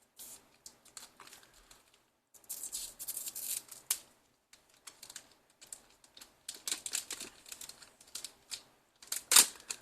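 Foil trading-card booster pack being torn open and handled, crinkling and rustling in several short spells, loudest near the end.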